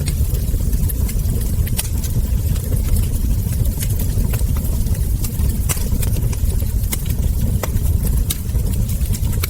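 Wood fire crackling: irregular sharp pops and snaps from the burning logs and embers over a steady low rumble of the flames.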